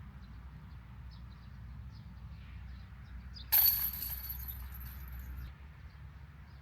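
A disc golf disc hitting the hanging chains of a metal basket about halfway through: a sudden loud metallic clash and jingle that rings down over about two seconds.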